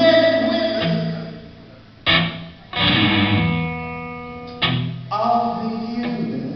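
Guitar playing: chords struck about five times, each left to ring and fade before the next.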